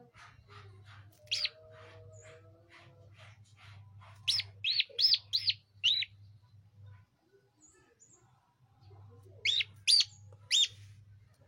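A bird giving loud, sharp chirps: one early, then a quick run of five about four seconds in, and three more near the end. Fainter, rapid chirping and a low steady hum run underneath.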